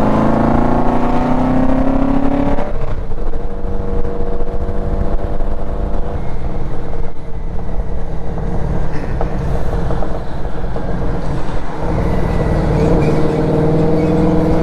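Motorcycle engine under way, heard from the rider's position. It rises in pitch as it accelerates, drops suddenly with a gear change about three seconds in, holds fairly steady, then climbs again near the end, over a constant low rumble.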